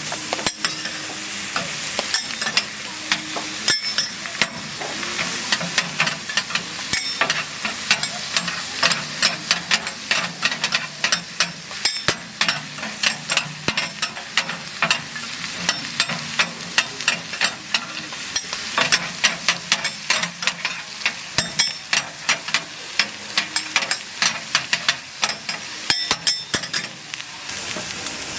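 Food sizzling on a hot griddle, with metal spatulas clicking and scraping against the plate several times a second, thickest in the second half.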